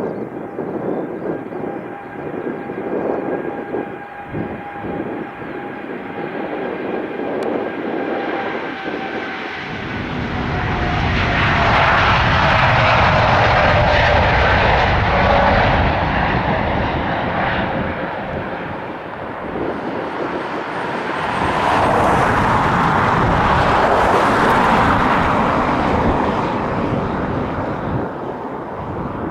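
Boeing 787-8 airliner taking off. Its jet engines are at takeoff power, with a steady whine that drops a little in pitch as the plane passes. The loud engine noise swells, eases briefly about two-thirds of the way through, then swells again.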